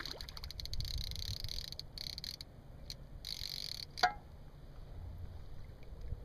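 Blue catfish croaking by rubbing its pectoral fin spines: several bouts of rapid raspy pulses, each up to about a second long. A short sharp click with a falling squeak sounds about four seconds in.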